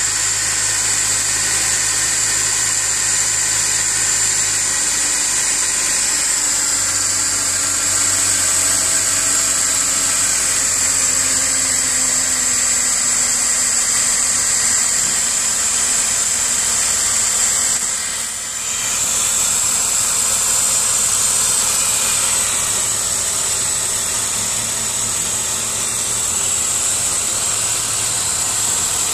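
BMW 530i's 3.0-litre straight-six idling after a cold start, running with the strange knocking and clattering the owner is chasing. Its low hum steps down in pitch about six seconds in, under a steady high hiss.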